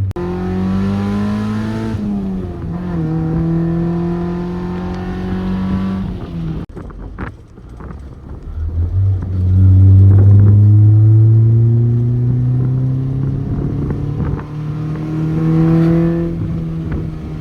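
Honda Civic EK's swapped K20 four-cylinder engine accelerating through the gears: the engine note climbs, drops at an upshift about two seconds in, eases off and cuts out briefly around the middle, then pulls hard and climbs again for several seconds before dropping near the end.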